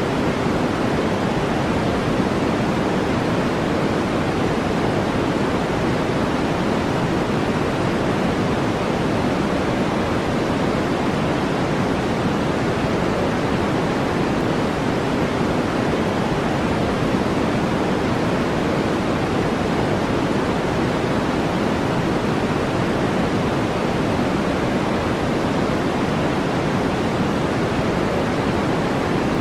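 Steady artificial colored noise, a deep, even hiss weighted toward the low and middle range with the highs rolled off, unchanging with no strokes or other events.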